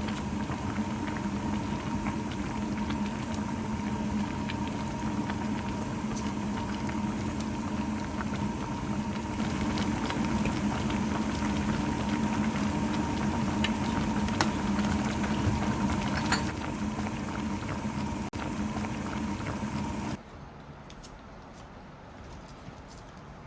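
Food cooking in a pot on the stove, bubbling with a dense crackle and a steady hum underneath. About twenty seconds in, the sound drops abruptly to a much quieter background.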